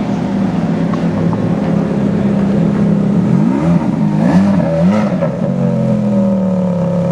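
Ferrari engine idling, blipped up and down several times in quick succession around the middle, then settling back to a steady idle.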